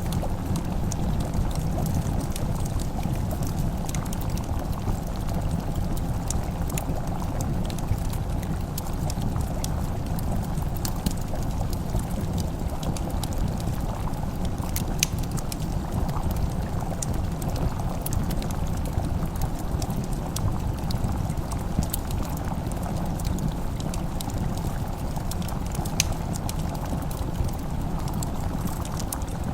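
Wood fire crackling with scattered sharp pops, over a steady low bubbling rumble of food cooking.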